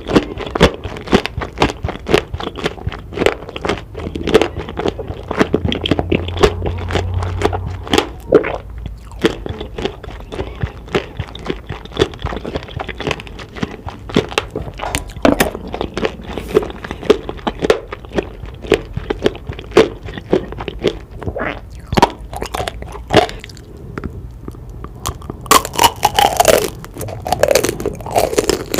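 Close-miked biting and chewing of tanghulu, fruit coated in a hard candied-sugar shell: the glassy sugar crunches and cracks in many quick, irregular snaps, mixed with wet chewing.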